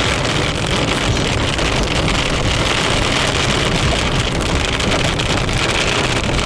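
Heavy rain pelting the car and the phone, with wind buffeting the microphone and the low rumble of the car driving on, all steady and unbroken.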